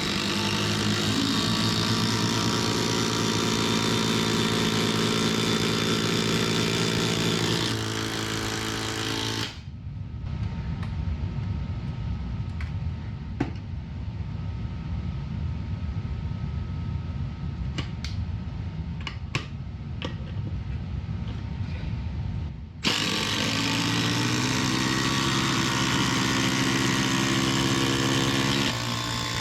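Two cordless impact drivers hammering fasteners into wooden 4x4s at the same time, their motors rising in pitch; one stops about eight seconds in and the other about two seconds later. After a quieter stretch with a low rumble and a few sharp clicks, both start hammering again and stop near the end.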